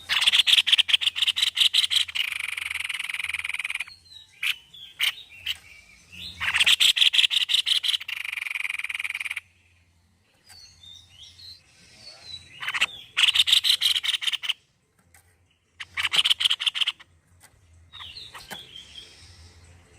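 White-bibbed babbler (tepus leher putih) singing in loud bursts of fast rattling trills, four times, each a second to three seconds long. The first two each end in a steadier buzzy stretch. Softer chirps come between the bursts.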